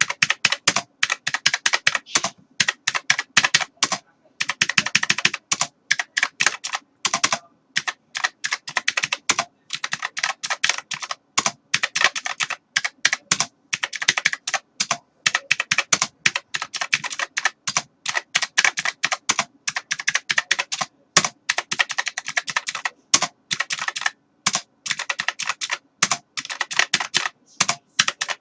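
Computer keyboard typing: fast runs of sharp key clicks with short pauses every few seconds.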